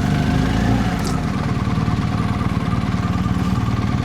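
BMW R1250GS boxer-twin motorcycle engine idling with steady, even firing pulses.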